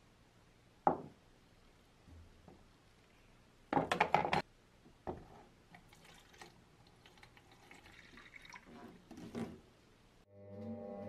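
Scattered light clicks and taps of hands working at a bench, with one sharp click about a second in and a quick cluster of rattling knocks around four seconds in. Background music comes in near the end.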